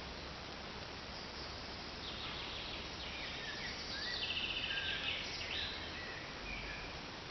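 A small bird singing outdoors: a phrase of short chirps and a rapid trill lasting a few seconds in the middle, over a steady background hiss.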